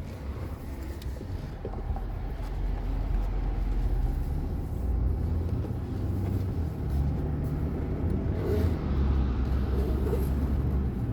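A car driving, heard from inside: a steady low rumble of engine and road noise that builds over the first few seconds and then holds.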